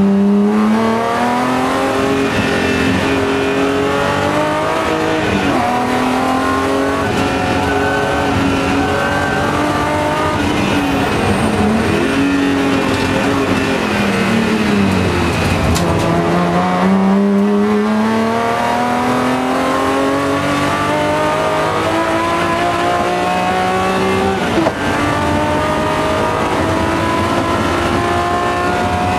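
BMW M3 race car engine heard from inside the cabin, revving hard through the gears. Its pitch climbs steadily and drops at each upshift, falls away in the middle as the car slows for a corner, then climbs again with another upshift near the end.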